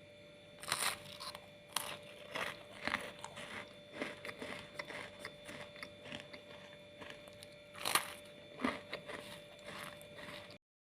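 Close-miked crunching bites and chewing of a crunchy snack pastry: a run of sharp crunches, the loudest about a second in and again near eight seconds, then the sound cuts off suddenly shortly before the end.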